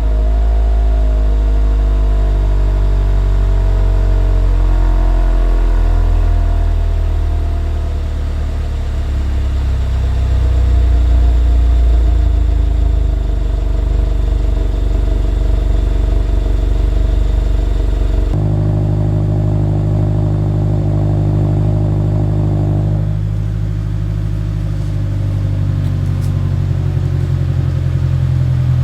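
Exhaust note of a 2024 Subaru WRX's turbocharged 2.4-litre flat-four, the engine speed shifting and swelling louder around twelve seconds in. About eighteen seconds in the sound cuts abruptly to a steadier note, which changes again about five seconds later.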